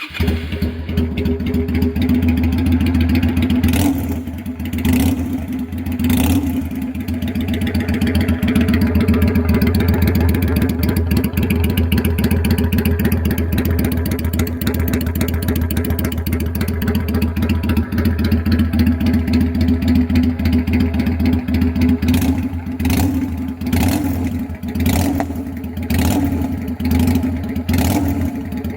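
Yamaha Drag Star 250's air-cooled V-twin running loud through a straight-pipe exhaust, idling with short throttle blips a few seconds in and several more toward the end.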